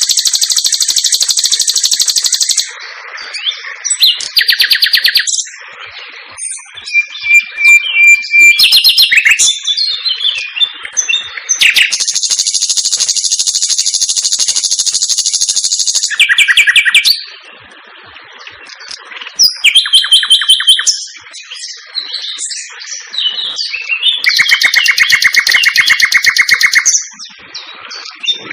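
Sikatan londo flycatcher song: long, high, rapid trills of a few seconds each, three times, alternating with varied quick chirps and short whistled notes.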